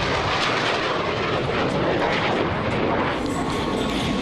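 Aircraft engine noise: a loud, steady roar, with a thin high whine joining about three seconds in.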